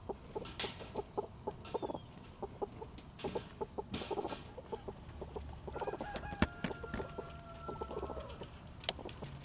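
Hens clucking in short, repeated calls, with a longer drawn-out call a little past the middle. Two sharp clicks cut in, one about six seconds in and one near the end.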